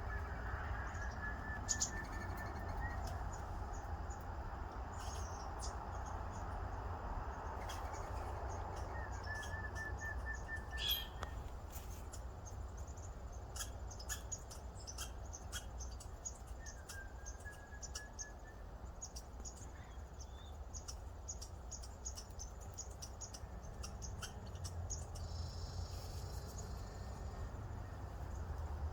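Birds calling: three rapid, pulsed trills of about two seconds each, several seconds apart, among many short, high chips, over a steady low rumble.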